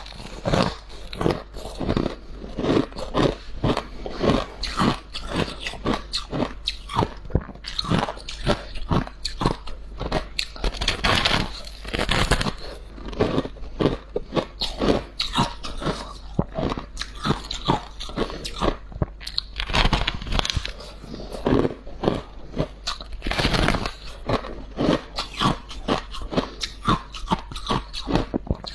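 A person biting and chewing soft, crunchy freezer frost scraped from a freezer. It makes a steady run of crisp crunches, a few every second.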